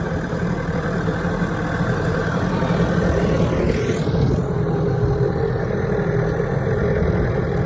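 An engine running steadily at idle, with a brief rising sweep about three and a half seconds in.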